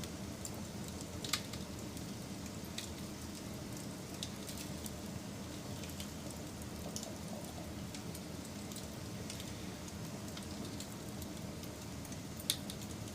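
Wood fire crackling: a steady low roar with scattered sharp pops, two louder ones about a second in and near the end.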